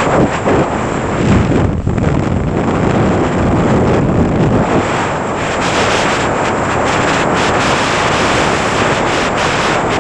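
Loud, steady wind rushing over the camera microphone during a skydive.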